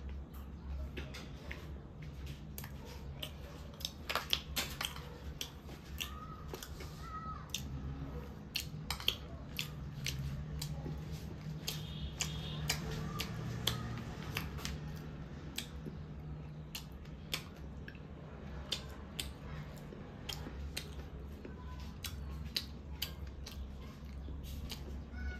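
A person chewing food, with many sharp small mouth clicks scattered irregularly, over a steady low hum.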